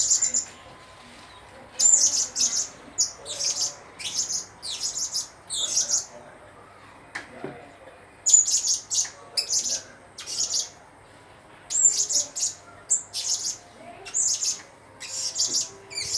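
Blue-crowned hanging parrot (serindit) chirping: sharp, high-pitched chirps in quick runs, broken by short pauses about a second in and again between roughly six and eight seconds.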